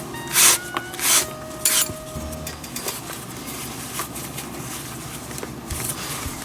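Handwork on a baseball glove during relacing: three short rasping swishes in the first two seconds, then quieter light clinks and rubbing.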